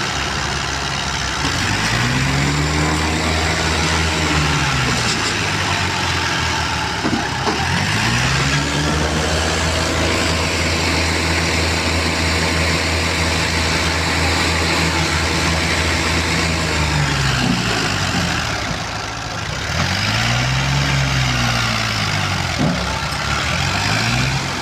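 Tractor engine revving up and holding high revs three times, then dropping back each time; the middle run is held for about eight seconds.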